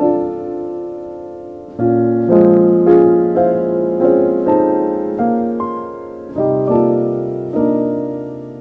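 Slow, gentle solo piano music: single notes and soft chords struck about once or twice a second and left to ring and fade.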